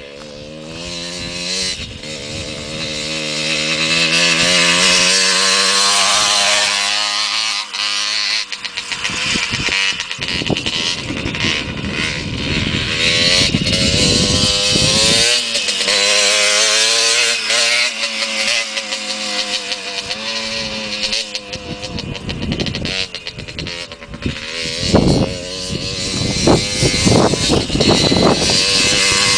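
Motocross motorcycle engines revving up and down as they ride, rising in pitch and loudness over the first few seconds, with choppy bursts of throttle near the end.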